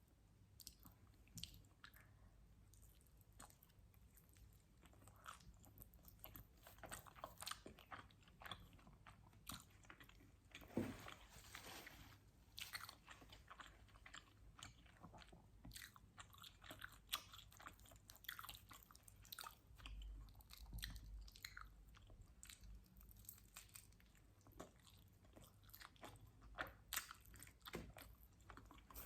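Close-miked chewing and biting of pizza: irregular soft mouth clicks, smacks and crunches, with the loudest bite about eleven seconds in.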